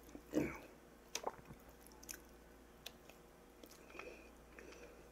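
Close-up chewing and mouth sounds of a person eating, with a louder mouth noise about half a second in and scattered small clicks.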